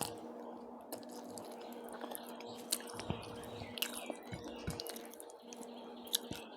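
A person chewing food, with wet mouth clicks and smacks at irregular intervals.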